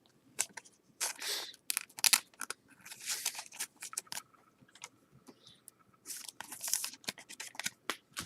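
Trading card pack wrapper being torn open and crinkled, with cards sliding and snapping against each other: irregular sharp clicks and short rustling bursts.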